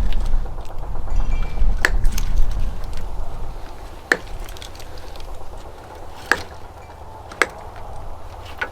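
Sharp clicks and snaps, about five of them a second or two apart, from hand work removing the lights of an old truck. Under them a low rumble fades after about three seconds.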